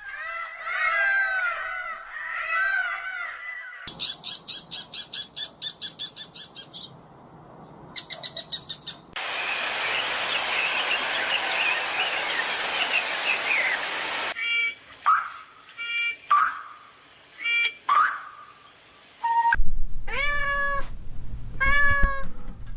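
Series of animal calls: a cat meowing at the start and again near the end, separated by rapid high-pitched chirping trains, a dense stretch of chattering chirps and several short calls.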